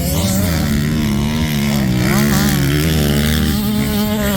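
Motocross dirt bike engines running on the track, their pitch rising and falling as the riders work the throttle.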